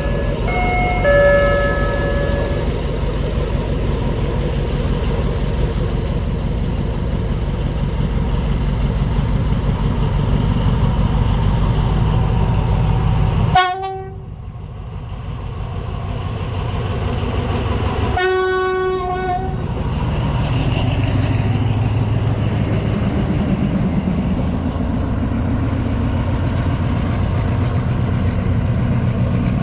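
Alstom diesel locomotive's Pielstick engine running with a deep, loud rumble, with a chord horn sounding in two blasts near the start. About halfway through the sound drops out abruptly and builds back up, and a short horn toot follows a few seconds later.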